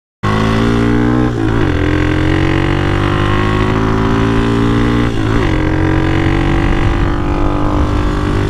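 Hawk DLX 250 EFI dual-sport motorcycle's single-cylinder engine under way, its pitch climbing steadily as it accelerates. The pitch dips and picks back up about a second and a half in and again about five seconds in, as the rider shifts up a gear.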